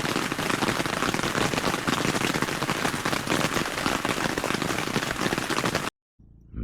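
Heavy rain falling, a dense, even hiss of drops that cuts off suddenly near the end.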